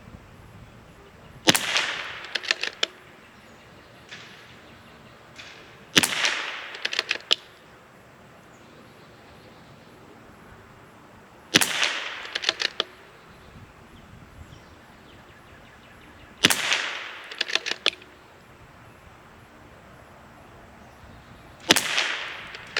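CZ 457 Varmint MTR .22 LR bolt-action rifle firing five shots, about five seconds apart. Each shot is followed within a second by a short run of sharp clicks as the bolt is worked and the case ejected.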